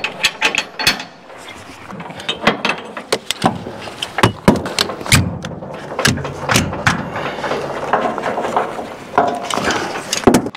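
Irregular clicks, knocks and rattles of hands-on work unloading a golf cart, with mechanisms and fittings clattering.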